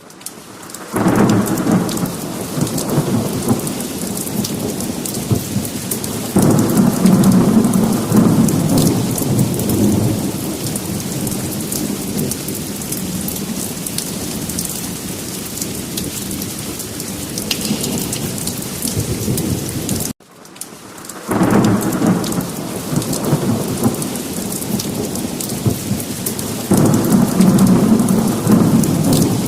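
Heavy rain with rolling thunder: a steady downpour hiss, with deep rumbles swelling about a second in and again around six seconds. The sound drops out briefly about twenty seconds in, then the same rain and rumble sequence starts over.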